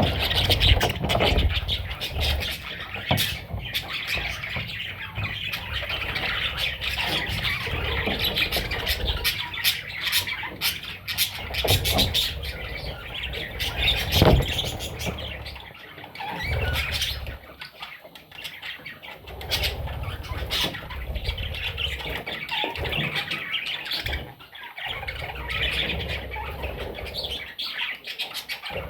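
Budgerigar chicks squawking continuously in raspy, overlapping calls, with low rumbling and short clicks underneath.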